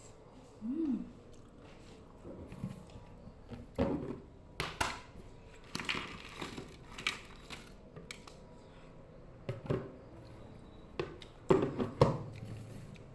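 Close-up eating sounds of rujak: irregular crunches and chewing of raw vegetables such as cucumber, with scattered clicks, loudest near the end.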